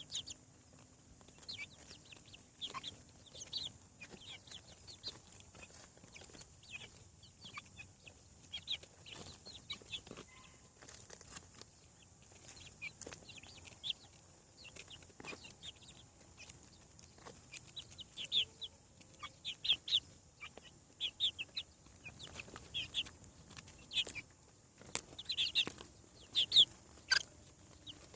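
Young chickens peeping: many short, high-pitched chirps overlapping, more frequent and louder near the end.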